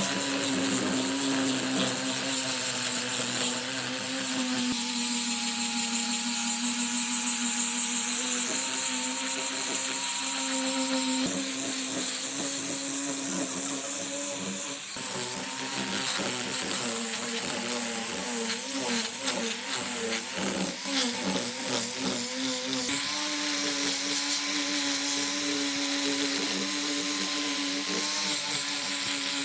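An electric power tool's motor running steadily with a bright high hiss. Its pitch wavers for several seconds past the middle, then settles again.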